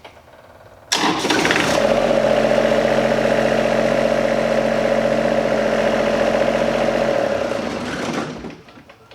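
A motor starts abruptly, runs steadily at one speed for about six seconds, then winds down and stops.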